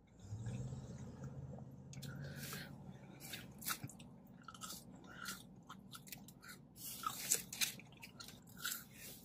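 Close-up chewing and mouth noises of a person eating French fries, with many short clicks throughout. A low hum runs through the first couple of seconds.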